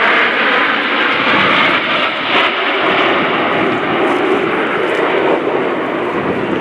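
Formation of Alpha Jet trainers in flight, their twin Larzac turbofan engines giving a steady, loud jet roar.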